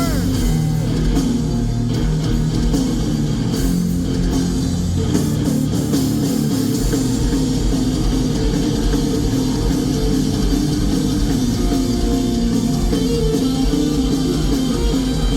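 Live rock band playing a loud instrumental passage: distorted electric guitar over a drum kit, in a driving, repeating pattern.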